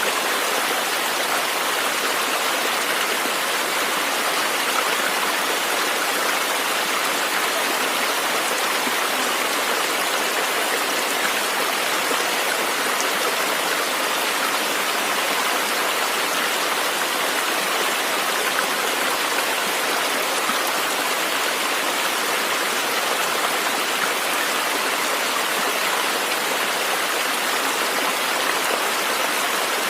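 River water rushing and splashing over rocks: a steady, even wash of flowing water.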